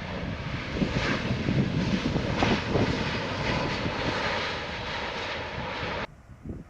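Airplane engine noise, a loud steady rushing sound with rumble underneath, that cuts off abruptly about six seconds in. Gusts of wind on the microphone follow the cut.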